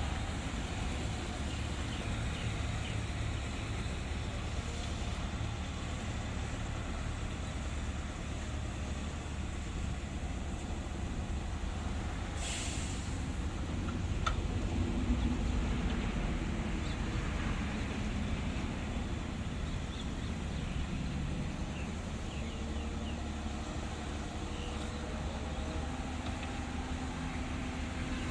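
Heavy diesel earthmoving machinery running steadily at work. A short hiss of air comes about twelve seconds in.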